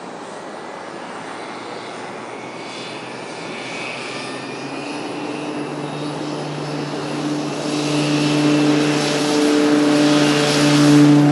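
Basler BT-67's twin Pratt & Whitney PT6A-67R turboprops at takeoff power: a propeller hum and turbine hiss that grow steadily louder, with a steady pitched drone coming in about halfway through.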